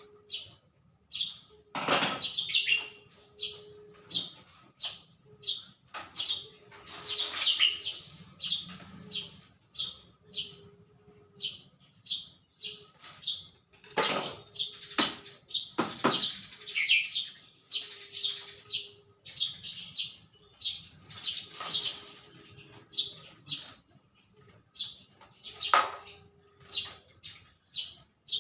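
Small songbirds chirping over and over, short high chirps about twice a second, with a few sharp knocks along the way.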